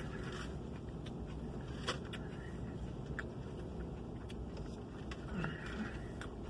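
Steady low rumble of a vehicle idling, heard inside its cab, with a few soft clicks from a man chewing and handling a burrito.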